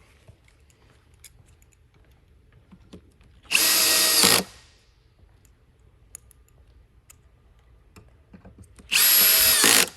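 Cordless drill/driver running two short bursts of about a second each, about three and a half seconds in and near the end, driving screws to mount a standing desk's control switch. Faint clicks of handling between the bursts.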